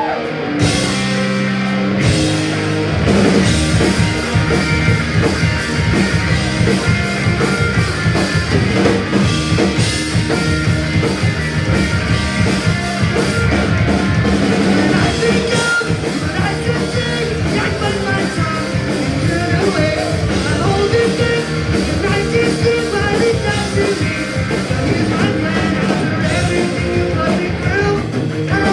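Punk rock band playing live, with guitars and a drum kit, the full band coming in about two seconds in after a short guitar lead-in.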